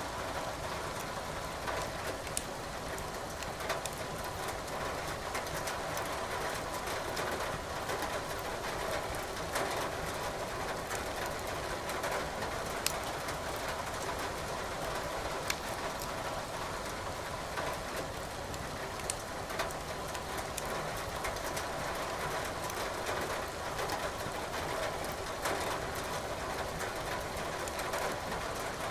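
Firewood burning in a fireplace, crackling with frequent sharp pops over a steady hiss of rain.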